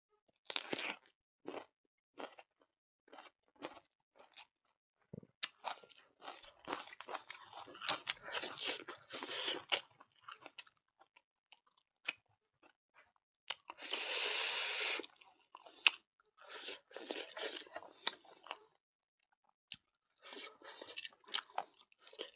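A person chewing and crunching food close to the microphone: irregular bites, clicks and smacks, with one longer noisy crunch about fourteen seconds in.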